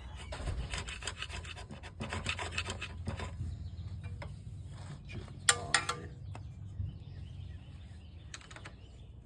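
Old clutch-cover gasket being scraped off a dirt bike's engine case, in quick repeated scraping strokes that thin out after about three seconds. Two sharp knocks a little past halfway.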